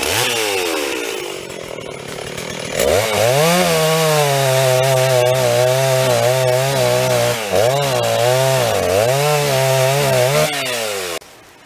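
Stihl chainsaw sawing wood: the engine slows at first, revs up about three seconds in and runs at full speed through the cut, dips briefly twice under load, then drops away near the end.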